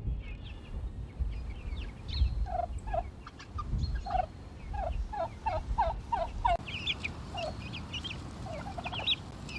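Domestic turkeys calling: runs of short, falling yelps, several in quick succession around the middle, with higher chirps mixed in.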